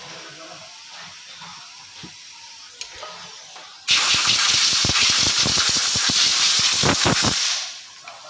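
A loud blast of compressed air hissing from a blow gun, starting suddenly about four seconds in, lasting nearly four seconds with an uneven buffeting rush, then tailing off, as is used to blow out gearbox parts.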